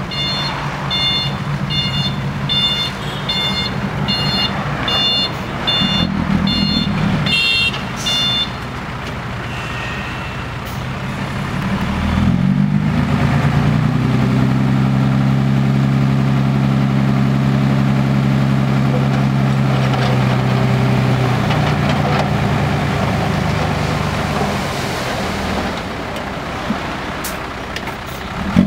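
Six-wheel dump truck's diesel engine running while its reversing alarm beeps about twice a second. The beeping stops about eight seconds in. A few seconds later the engine revs up and is held high for about ten seconds, then eases off, the truck straining to get out of the mud.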